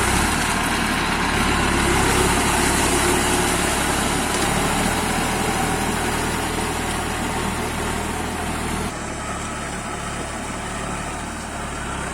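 Tractor engine running steadily, a little quieter from about nine seconds in.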